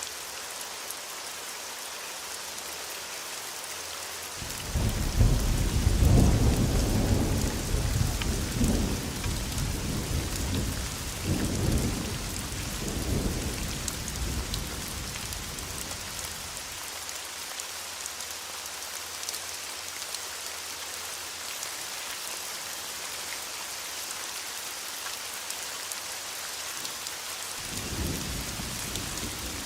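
Steady heavy rain hissing, with a long roll of thunder that starts about four seconds in, rumbles in several swells and fades out over about twelve seconds; another thunder rumble begins near the end.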